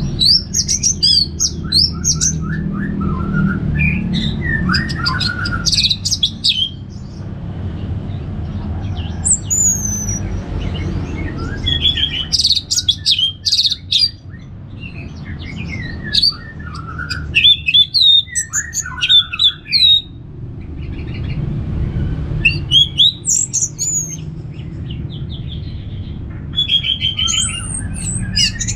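Orange-headed thrush singing in the relaxed, open 'ngeplong' style: about seven phrases of quick, varied whistles and chirps with short pauses between them, over a steady low hum.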